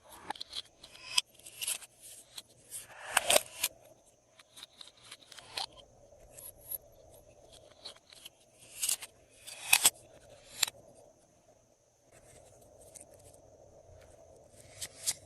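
Glossy slime being worked by hand, with irregular clusters of sticky crackling clicks and pops. There is a short lull about eleven seconds in.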